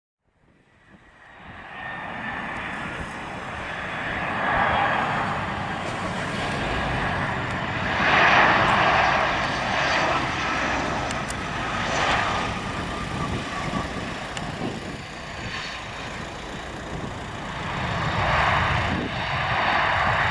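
Airbus A320-200 jet airliner landing, its jet engines running with a steady rushing noise and a faint whine that slowly falls in pitch. The noise rises from silence in the first two seconds and swells louder several times.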